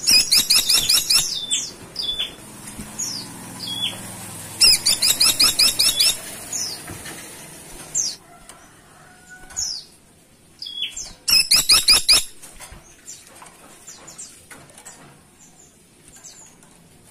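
Caladi tikotok woodpecker (grey-and-buff woodpecker) calling: three loud bursts of eight to ten rapid, sharp notes, at the start, about five seconds in and about eleven seconds in, with single short falling calls between them.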